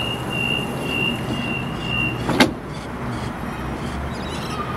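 Sydney Trains Waratah electric train standing at a platform, its equipment humming low and steady, with a high electronic beep pulsing about twice a second that stops a little past halfway, then a single sharp clunk. A short mid-pitched tone sounds near the end.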